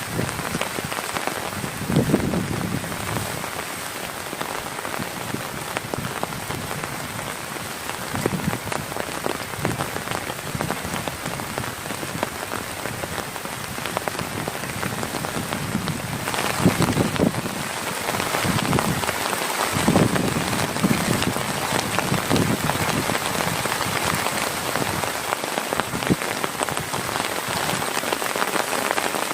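Heavy rain falling, a steady dense hiss of drops pattering on a surface, with a few deeper surges in the noise about two seconds in and again past the middle.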